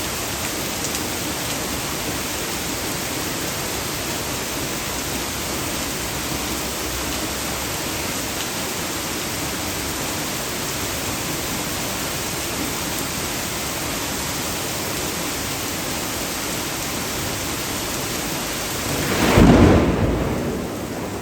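Torrential rain pouring down steadily, with rainwater gushing out of an overflowing storm drain. About nineteen seconds in, a loud thunderclap with a deep rumble breaks out and dies away over about two seconds.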